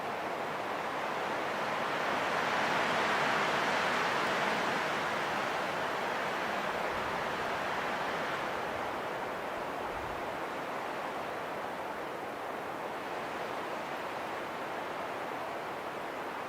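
Wind rushing as a steady noise, swelling a few seconds in and then easing back to an even level.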